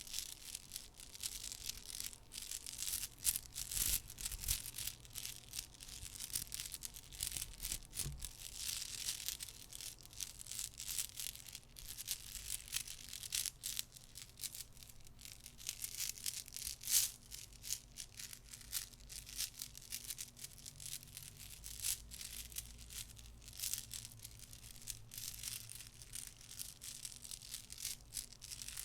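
Decorative glass beads clicking and rattling against one another as they are handled, a dense, irregular run of soft clicks.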